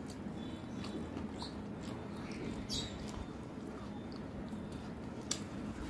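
Close mouth sounds of someone eating rice and curry by hand: chewing with wet lip smacks and a few short, sharp mouth clicks, the loudest about five seconds in.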